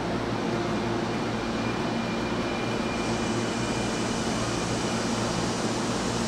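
Steady hum of a stationary Hankyu electric train standing with its doors open, its air-conditioning and onboard electrical equipment running, with a faint steady whine over the top from about halfway in.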